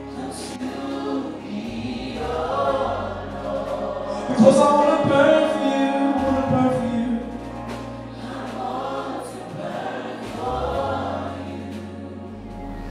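Choir singing a gospel worship song over a steady bass line, in phrases that swell loudest about four and a half seconds in.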